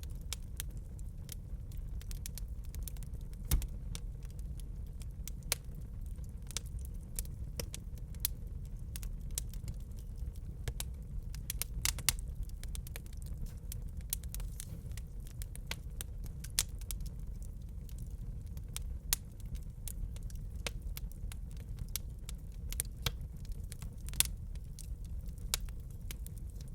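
Wood fire in a fireplace crackling: irregular sharp snaps and pops, a few louder than the rest, over a steady low rumble.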